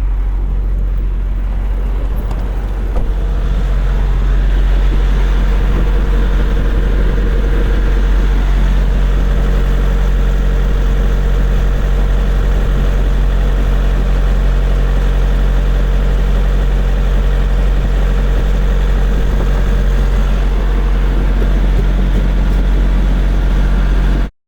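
Semi truck's diesel engine running steadily, a little louder after about three seconds, then cut off abruptly.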